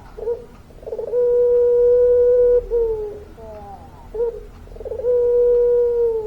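Puter pelung dove cooing: a couple of short notes, then a long, steady, held coo that drops away at its end, and the same again, with the second long coo still sounding near the end.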